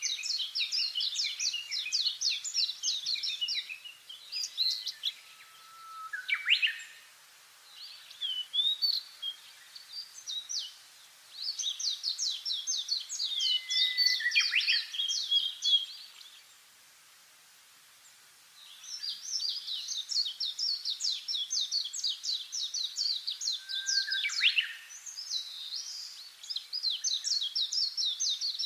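A songbird singing long, fast trills of high repeated notes in phrases several seconds long, with pauses between them. A few short lower downward-slurred calls come in between the phrases.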